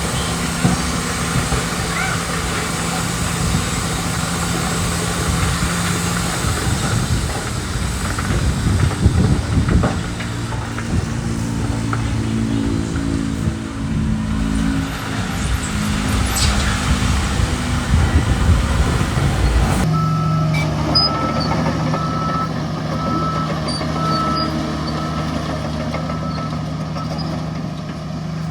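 Heavy diesel engines of earthmoving machinery, a bulldozer and dump trucks, running loud and steady, their pitch shifting as they work under load. In the last third a reversing beeper sounds about once a second.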